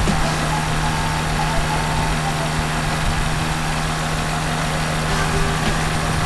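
Rotax 503 two-stroke engine of an Air Creation Twin ultralight trike running steadily in flight, a constant drone under an even rush of wind noise.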